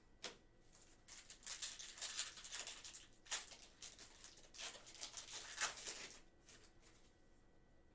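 Trading-card packs and cards being handled: a run of crinkling, rustling and scraping strokes from about a second in until about six seconds in, with a few sharp clicks.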